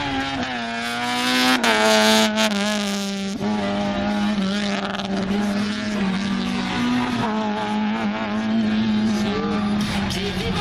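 Honda Civic race car's engine revving hard, its pitch climbing and falling with the throttle. It is loudest and highest in the first few seconds and drops abruptly about three and a half seconds in.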